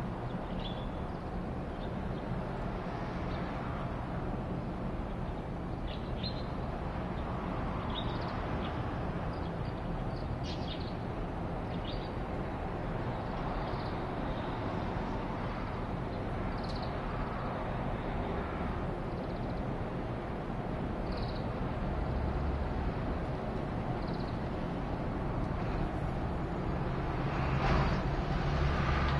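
Steady drone of an aircraft overhead, swelling a little near the end, with short bird calls over it.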